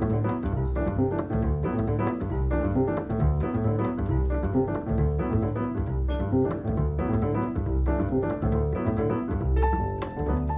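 Jazz duet of acoustic piano and double bass: the piano plays chords and melodic runs over a steady line of low bass notes.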